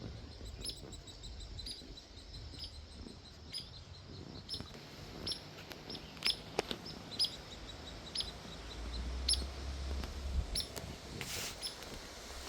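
Birds chirping: short, high chirps repeated about once a second, faint. A brief low rumble comes in about two-thirds of the way through.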